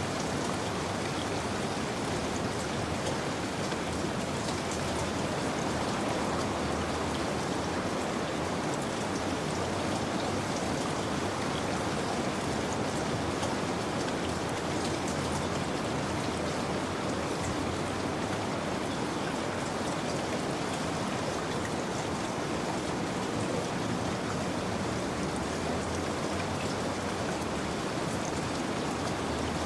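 Steady rain falling, an even wash of noise with scattered small ticks of individual drops.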